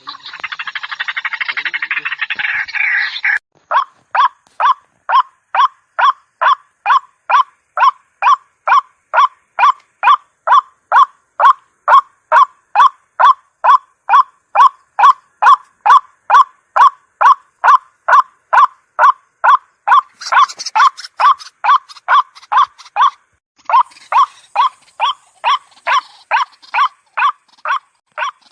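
White-breasted waterhen calling: a rapid harsh chatter for the first few seconds, then a long run of evenly repeated croaking notes, about two and a half a second. Near the end the notes turn harsher and break off for about a second before starting again.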